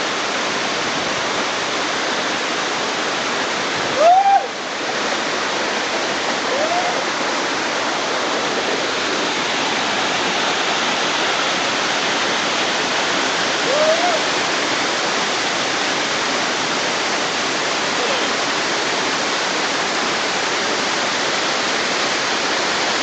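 Tiered waterfall pouring steadily into its pool, a continuous rush of water. A few brief pitched sounds rise and fall over it about four, seven and fourteen seconds in, the first one loudest.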